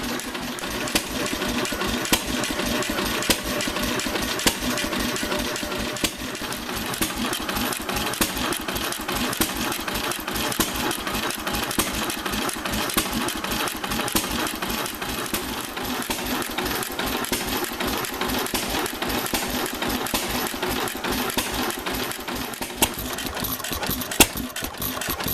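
Antique SAMSCO 5 HP throttle-governed stationary engine running steadily with an even, rapid exhaust beat. Its governor holds the speed through the throttle, so it fires regularly rather than hit-and-miss.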